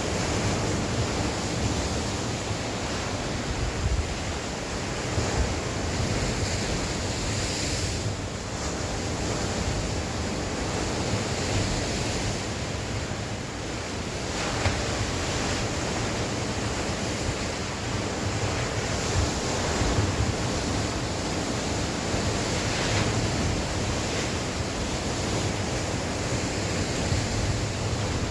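Sea waves washing in and breaking on the shore, a continuous rushing surge that swells and eases every few seconds, with wind buffeting the microphone.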